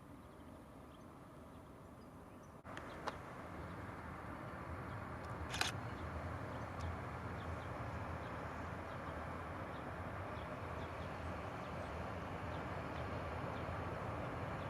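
ST44 diesel locomotive's two-stroke V12 engine heard from a distance, a low rumble that slowly grows louder as it approaches, with birds chirping. A quieter stretch comes first, and there are two short clicks about three and five and a half seconds in.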